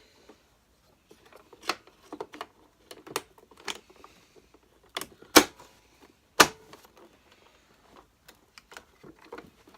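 Irregular clicks and knocks of an upturned Hoover Senior Ranger U4002 upright vacuum being handled while a new drive belt is fitted, with two sharper knocks near the middle.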